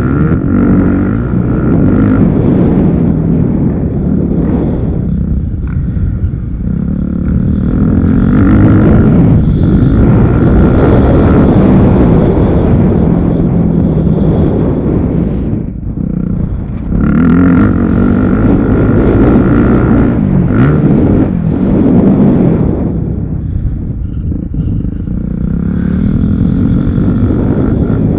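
Motocross motorcycle engines revving loud and close, the pitch rising and falling over and over as the throttle opens and closes.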